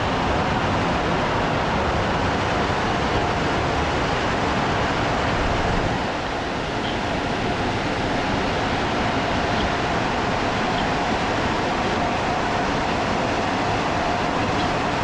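Car wash air dryer blowers rushing steadily over the car, dipping slightly about six seconds in.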